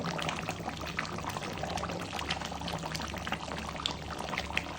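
Chicken leg pieces cooking in masala in a pan, a steady crackle of bubbling and many small irregular pops.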